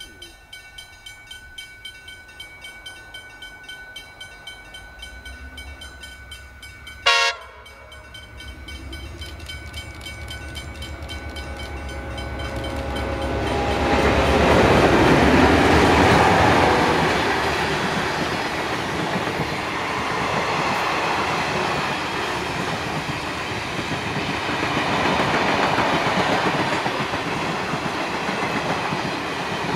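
A short, loud horn blast from an approaching train about seven seconds in. Then the diesel engines of three heritage diesel-electric locomotives build to a peak as they pass, followed by the steady noise of the stainless-steel passenger carriages' wheels running on the rails.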